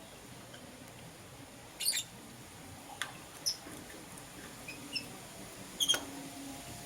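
Lovebirds giving short, shrill chirps at intervals: a double chirp about two seconds in, a few softer chirps in the middle, and a loud double chirp near the end.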